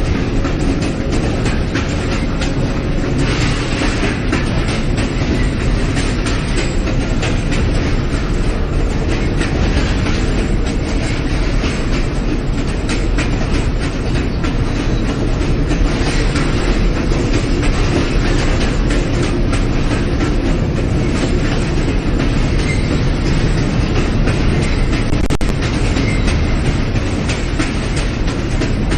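New York City Subway J train car running at speed between stations: a steady loud rumble of wheels on rail with clicking over the rail joints, heard from inside the car.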